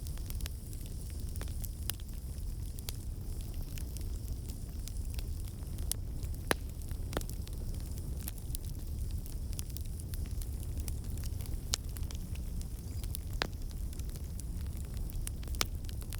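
Fire burning in a fireplace: a steady low rumble of flames with scattered sharp crackles and pops, one louder pop about six seconds in.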